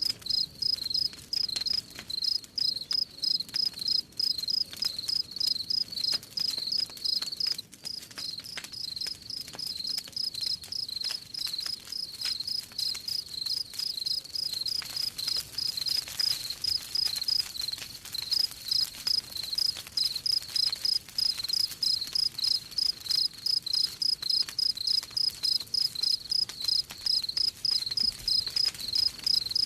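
Crickets chirping in a steady, even rhythm, about three high chirps a second, with faint crackling of a campfire underneath.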